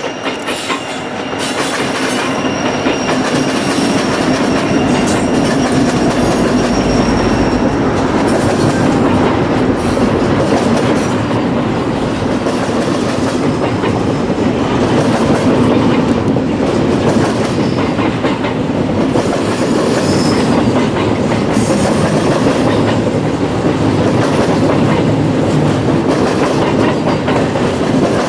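A train rolling past, its wheels clattering over rail joints in a steady run of clicks, growing louder over the first two seconds and then holding. A thin high wheel squeal sounds faintly during the first several seconds.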